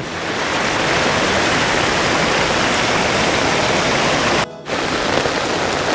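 Floodwater rushing down a swollen hillside creek in a steady torrent, with a brief gap about four and a half seconds in.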